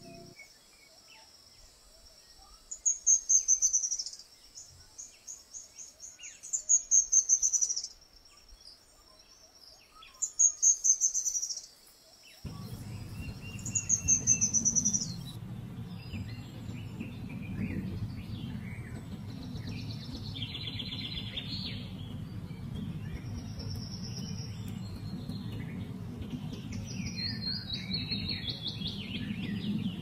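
Birdsong: a bird repeats a short, high phrase of quick notes falling in pitch about every three to four seconds. A little after twelve seconds a steady low background noise comes in, with varied chirps and calls from several birds over it.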